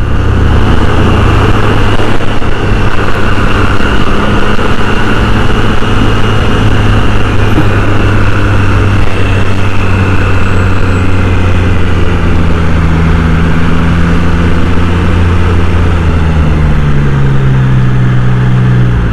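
Triumph Trident 660's inline three-cylinder engine running steadily while the motorcycle is ridden, heard from the rider's mic with road and wind noise; the engine note shifts lower near the end.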